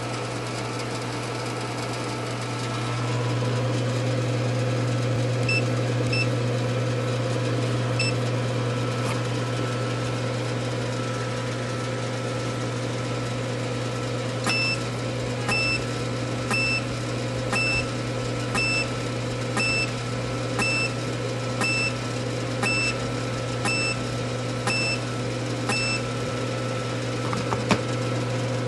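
Sciton BBL light system running with a steady low hum. Short high beeps come about once a second, a few early on and then a regular run from about halfway, each with a faint click.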